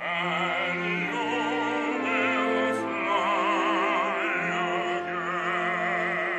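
Operatic singing with a wide vibrato over sustained orchestral accompaniment, entering suddenly at the start.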